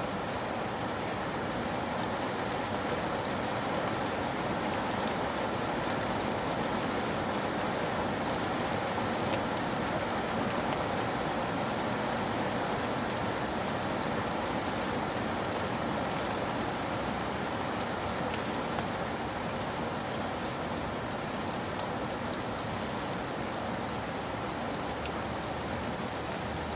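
Steady rain falling, an even hiss of many soft raindrops with faint drop ticks scattered through it.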